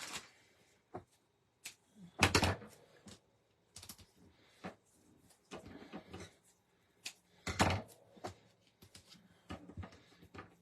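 Paper-craft supplies handled on a tabletop while foam tape goes onto the back of a card: scattered light clicks, taps and rustles, with two louder knocks, one about two seconds in and one near eight seconds.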